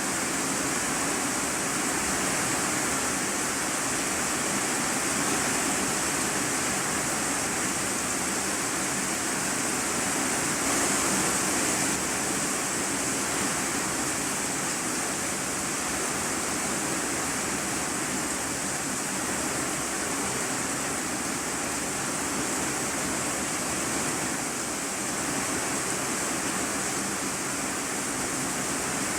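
Heavy rain drumming on a corrugated iron-sheet roof, heard from the room below as a steady, dense hiss.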